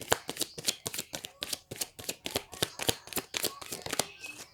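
Tarot cards being shuffled by hand: a fast run of crisp card clicks and slaps, about five a second, that stops shortly before the end.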